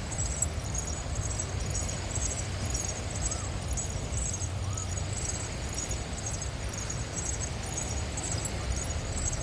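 Outdoor beach ambience while walking: a steady low rumble of wind on the microphone with faint, irregular crackling over it.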